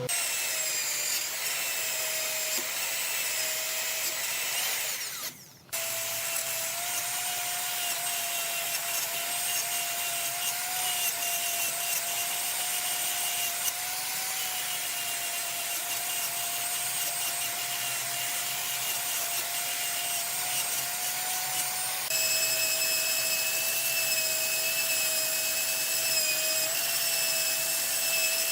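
Wood lathe running with a steady whine while a cutting tool scrapes the spinning wood. The sound cuts out briefly about five seconds in, and the whine changes pitch slightly and gets louder about 22 seconds in.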